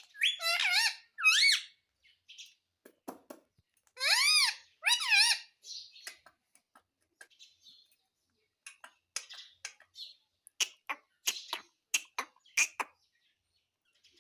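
Ring-necked parakeet calling: two short, pitched calls at the start and two more about four seconds in, each with a rise-and-fall contour, followed by a run of short clicks and chirps.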